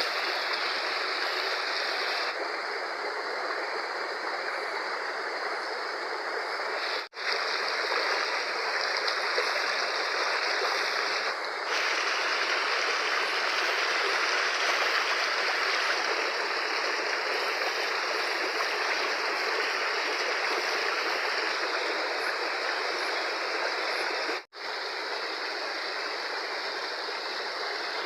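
Fast-flowing river water rushing in a steady, even noise, its tone shifting slightly now and then. The sound drops out for an instant twice, about seven seconds in and again near the end.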